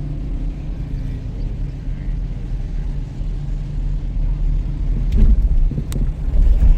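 Motor vehicle engine running steadily, a loud low rumble with a few faint knocks about five and six seconds in.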